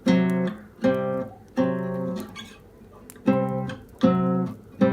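Nylon-string classical guitar playing fifths with a melody note: six plucked chords, each left to ring, in two groups of three with a short pause between.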